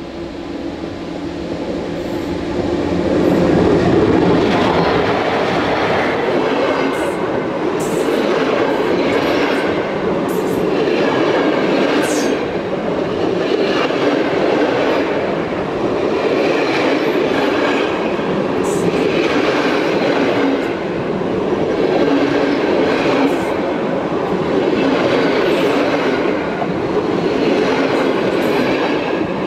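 Passenger train running directly over a camera set between the rails: a loud, steady rumble of steel wheels on the rails, with repeated clacks every second or two as the bogies pass. The sound builds over the first few seconds as the train arrives overhead, then holds.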